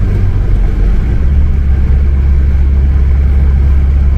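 Steady low rumble of a motor vehicle running, its deep drone shifting slightly about a second in.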